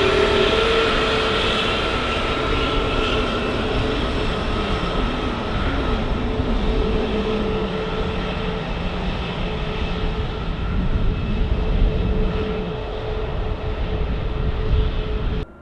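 Jet airliner engines running loud and steady, a roar with a held whine over it, cutting off abruptly near the end.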